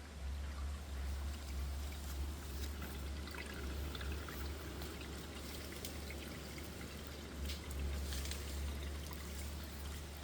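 Water trickling and pouring, with a steady low rumble underneath and a few faint ticks.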